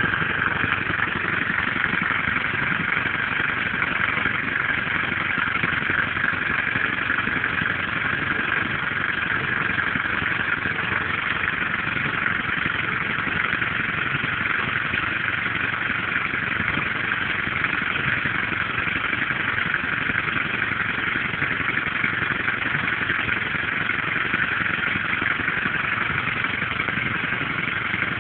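Compressed-air engine running steadily, an even noise that does not change.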